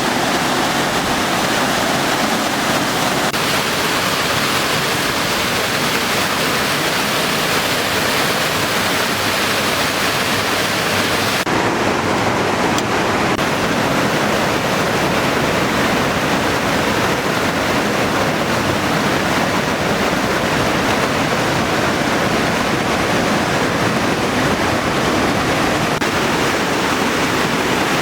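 Rushing river water tumbling over boulders, a loud, steady rush. About eleven seconds in, the sound turns slightly duller, losing its highest hiss.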